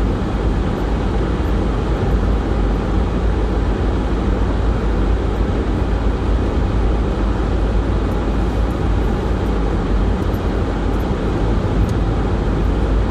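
Steady low rumble of engine and tyre noise inside a car's cabin, driving on a snow-covered road.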